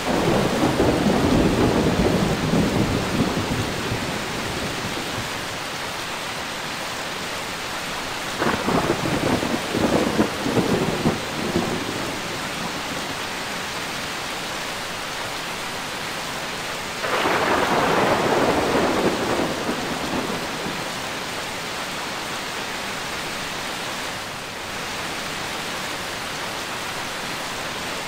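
Steady rain falling, with three rolls of thunder over it: one at the very start that fades over a few seconds, a choppier one broken into several cracks about eight seconds in, and another about seventeen seconds in.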